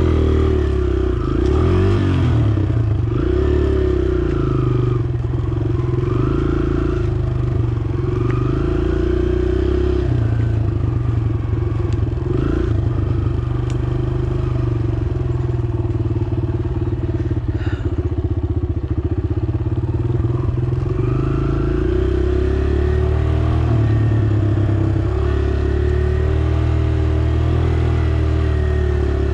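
Dirt bike engine running as it is ridden, its pitch rising and falling in steps as the throttle and gears change.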